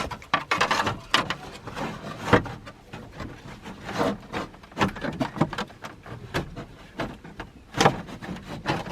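Hands handling gauge-kit parts and packaging: irregular rustling with sharp clicks and knocks.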